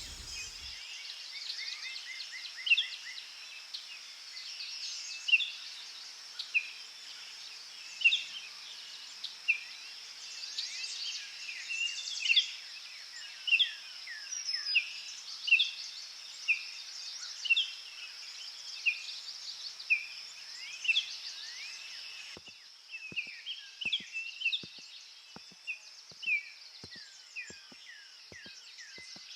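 Birds calling in short, repeated descending chirps, roughly one a second, over a steady high-pitched insect drone. The background shifts about three-quarters of the way through, with faint ticks underneath.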